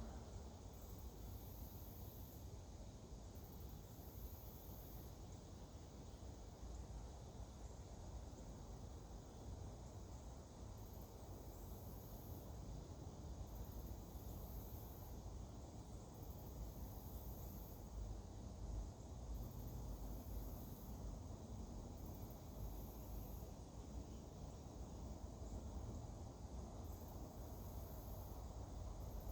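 Outdoor insect chorus: a very high, thin calling that comes in bouts of about a second or two with short gaps between, over a faint low steady rumble.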